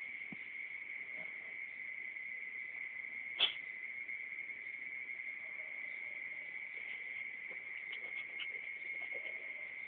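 Steady high-pitched chirring of insects, with one sharp click about three and a half seconds in.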